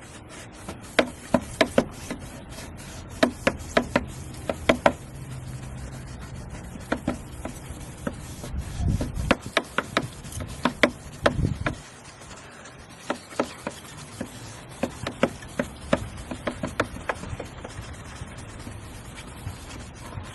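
A headlight lens being wet-sanded by hand with a fine sanding pad, rubbing in up-and-down strokes with groups of short, sharp scrapes. A low rumble comes in about nine seconds in and stops near twelve seconds.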